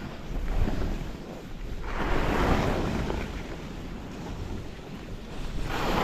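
Wind buffeting a helmet or chest camera's microphone while skiing, with skis hissing across the snow in swells, loudest about two seconds in and again near the end.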